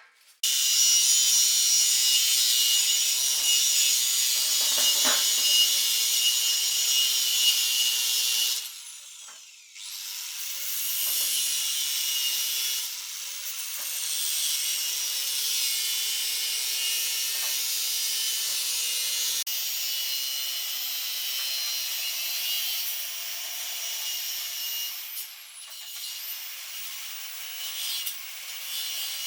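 A handheld power tool grinding or cutting with a high-pitched rasping noise. It stops about eight and a half seconds in and starts again a second or so later, with a brief dip again near the end.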